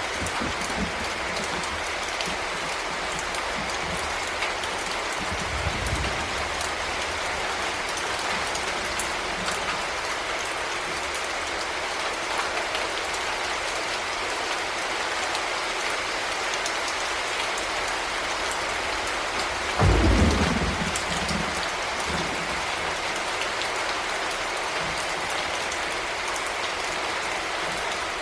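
Heavy rain falling steadily, with a brief low rumble of thunder about six seconds in and a sudden, louder crack of thunder about twenty seconds in.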